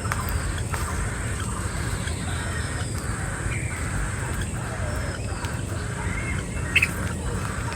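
Birds calling, with several short falling whistles over a continuous chatter, against a steady low rumble and a constant high hiss. A sharp click comes about seven seconds in.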